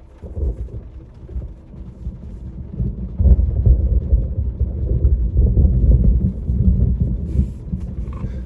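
Thunder rumbling: a deep, rolling rumble that swells about three seconds in and eases off near the end.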